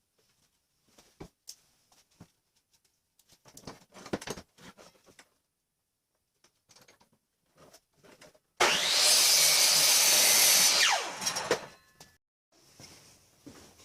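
Scattered knocks and taps, then an electric power saw cutting into wood for a little over two seconds. It stops suddenly and the blade winds down with a falling whine, followed by a few more knocks.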